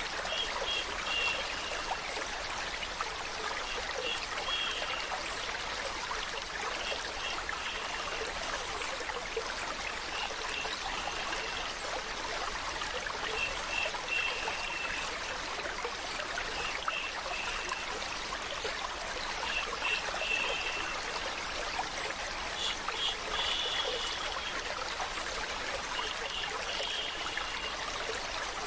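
Water flowing steadily as white noise, with short high-pitched notes recurring every few seconds.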